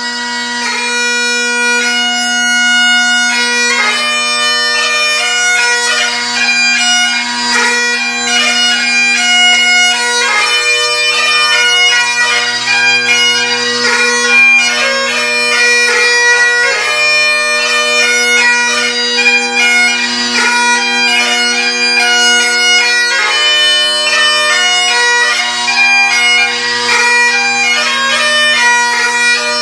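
MacLellan Revelation Great Highland bagpipes playing a tune: a Shepherd chanter with a Chesney reed carries a melody of quickly changing notes over the steady, unbroken hum of the drones, which are fitted with Kinnaird Evolution reeds.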